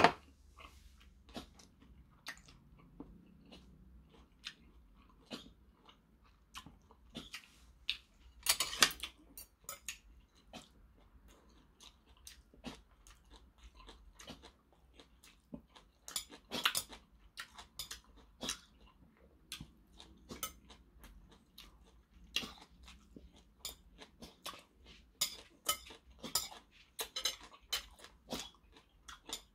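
A man chewing food close to the microphone, a run of short mouth clicks coming in bursts, with metal chopsticks clicking against a porcelain bowl now and then.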